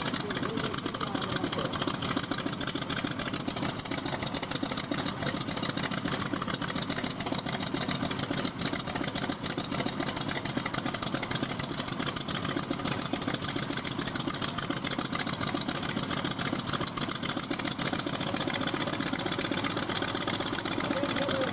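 North American T-28 Trojan's 800-horsepower Wright R-1300 radial engine running steadily at low power, a rapid, even firing beat.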